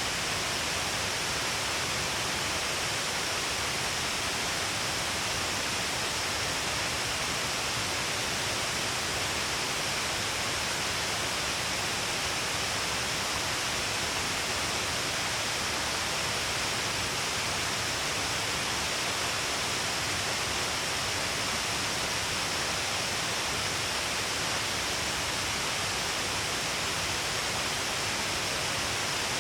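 Shiraito Falls, a wide waterfall pouring in many strands all along a cliff face: a steady, dense rush of falling water and spray.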